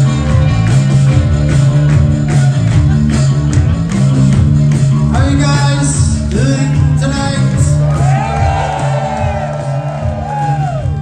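Live rock band playing loud amplified music in a hall: a steady pulsing bass and drum beat, with sliding sung and shouted vocals from about halfway through.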